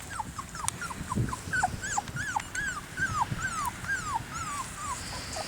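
Puppy whimpering: a run of short, high whines, each rising then dropping in pitch, about three a second.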